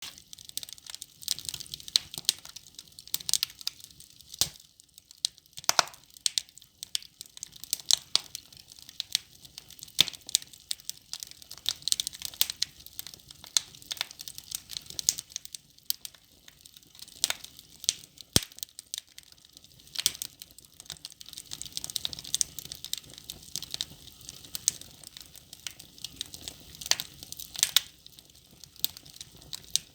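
Wood logs burning in a fireplace, crackling with frequent irregular pops and snaps over a faint hiss.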